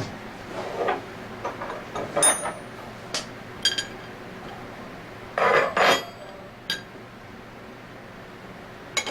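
Metal tools and compressor parts clinking and knocking as they are handled and set down during disassembly: a run of separate clinks, some with a short metallic ring, the loudest cluster about halfway through.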